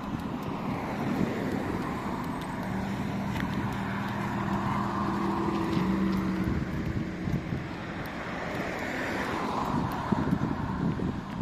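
Street traffic: motor vehicles driving past, one with a low engine hum that swells and fades over a few seconds, with wind on the microphone.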